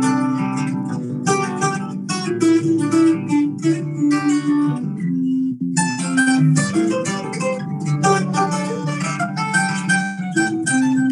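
Acoustic guitars strumming chords over sustained low notes, an instrumental passage between sung verses of a song played in a stairwell. The strumming thins out briefly about halfway through.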